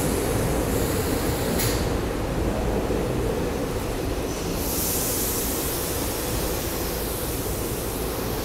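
SEPTA Silverliner electric railcar running beside the platform: a steady low rumble and hum, with a brief hiss about a second and a half in and a steady high hiss setting in about halfway through.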